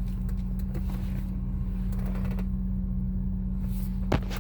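A car's engine and road noise heard from inside the moving car, a steady low drone, with one sharp click near the end.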